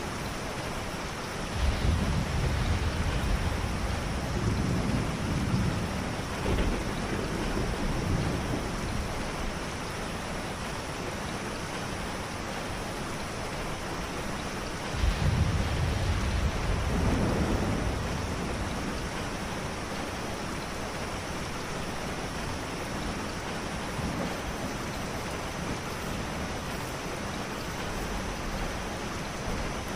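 Steady rain with two rolls of thunder, one about two seconds in and one about halfway through, each rumbling for several seconds before fading.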